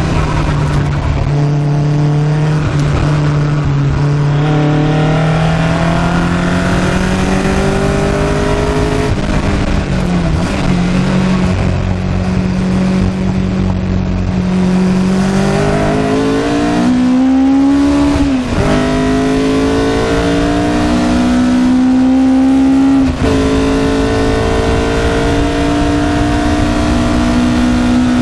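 Caterham 7's 1.8-litre Rover K-Series four-cylinder engine driven hard on track, heard from the open cockpit. Its note wavers through braking and a corner, then climbs under full acceleration, dropping sharply twice at upshifts in the second half before climbing again.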